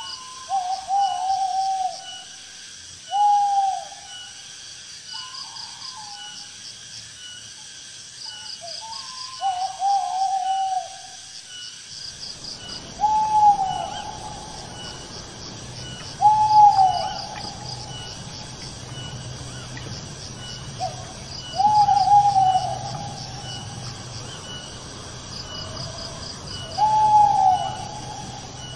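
An owl hooting, single hoots about a second long repeated every few seconds, over a steady chorus of night insects chirping in rapid pulses.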